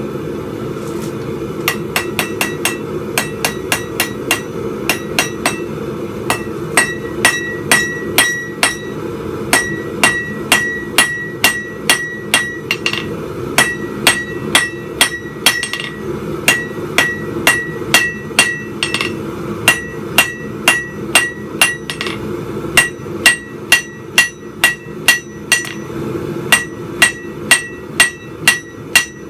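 Hand hammer striking a steel bar on an anvil while forging a spike, each blow ringing out, in runs of about three strikes a second with short pauses between runs. A steady low rumble runs underneath.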